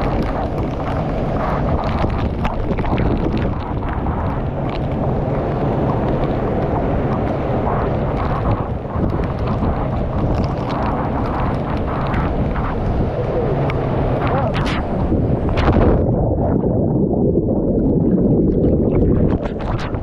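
Steady, loud rushing of the Biausevu waterfall, heaviest in the low range. About sixteen seconds in the sound turns muffled, its high end dropping away.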